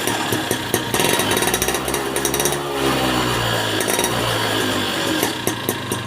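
Motorcycle engine running with a rapid clattering tick, revved up and back down once about halfway.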